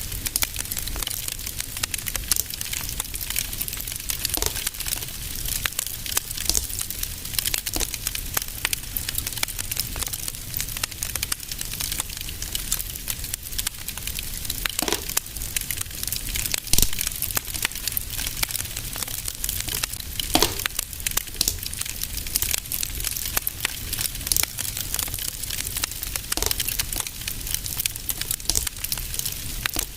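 Fireplace fire crackling steadily in a dense, irregular stream of small snaps, with a louder pop now and then and a low steady rumble beneath.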